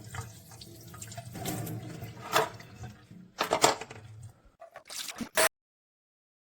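Water sloshing and gurgling over a low hum, with a few louder splashy bursts, cutting off abruptly near the end.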